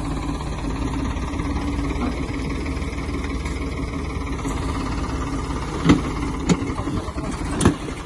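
Farmtrac tractor's diesel engine running steadily at idle, with three sharp knocks or clanks near the end.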